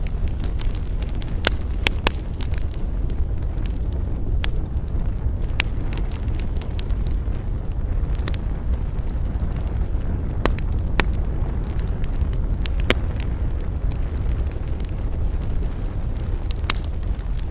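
Campfire burning: a steady low roar of flames with irregular sharp crackles and pops from the burning wood.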